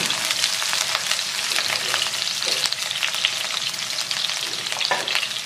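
Sliced shallots and garlic sizzling and crackling in hot oil in a nonstick wok, with a spatula stirring them and scraping the pan now and then.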